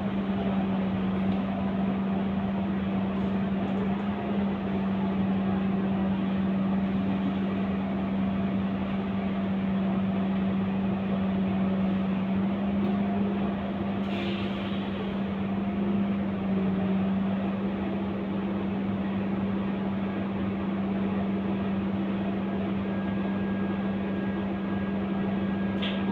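Scania K230UB city bus heard from on board, its drivetrain giving a constant droning hum that holds one pitch throughout. A short hiss comes about halfway through.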